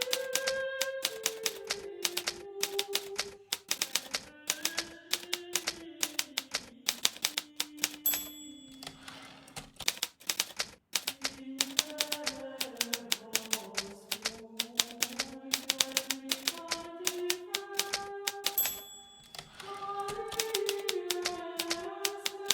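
Hermes Baby portable manual typewriter being typed on in quick, steady runs of keystrokes, with a short pause about ten seconds in. Soft music with a slow, wandering melody plays underneath.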